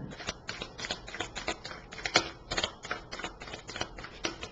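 A deck of tarot cards being shuffled by hand: a quick, irregular run of sharp card slaps and flicks.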